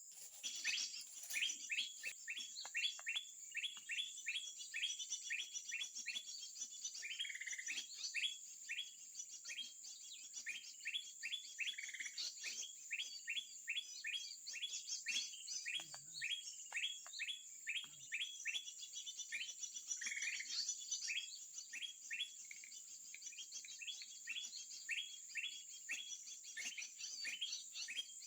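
Bird calling in a long, fast series of short high chirps, about three a second, broken by a few longer notes. A steady high-pitched insect drone runs underneath.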